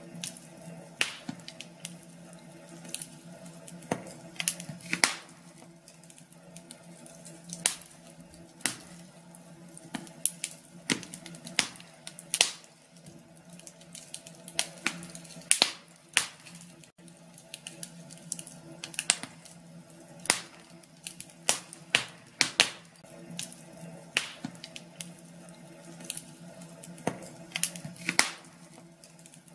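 Wood fire in a fireplace crackling, with irregular sharp pops and snaps of varying loudness over a faint steady low hum.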